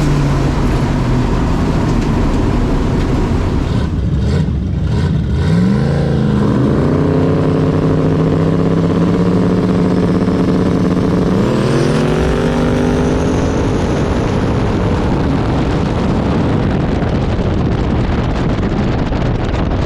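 Race car engine running loud at a drag strip. Its pitch climbs about six seconds in, holds steady for several seconds, then climbs again around twelve seconds in before blending into a dense, steady noise.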